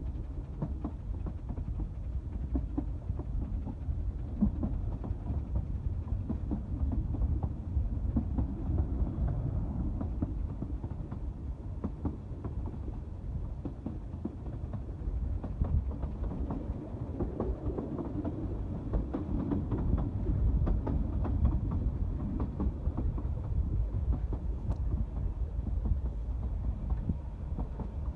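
Narrow-gauge train carriages running along the track: a steady low rumble of wheels on rail, with frequent clattering clicks and rattles from the coaches.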